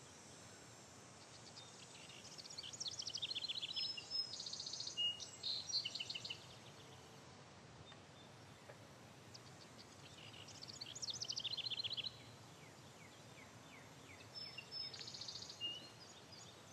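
Songbirds singing: three bouts of rapid, repeated chirping trills over a faint steady background hiss.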